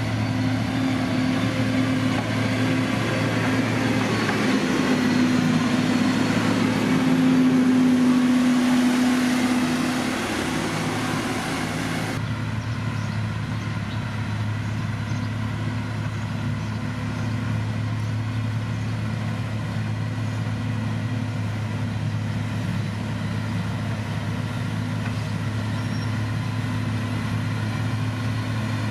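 Diesel engine of heavy road-construction machinery running steadily. A rushing noise lies over it and swells, then cuts off abruptly about twelve seconds in, leaving the engine running on its own.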